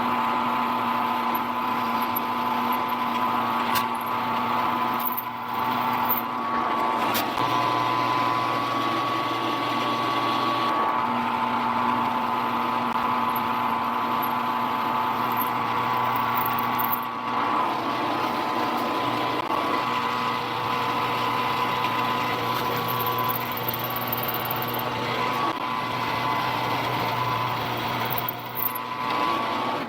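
Round-column drill press motor running steadily while a stubby drill bores holes, a constant machine hum with brief changes in level as the bit is fed in and backed out.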